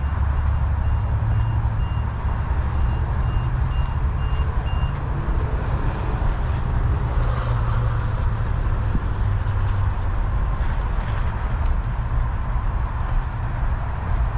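A vehicle's reversing alarm beeping evenly, a little over twice a second, for the first five seconds or so, then stopping. A steady low rumble runs underneath throughout.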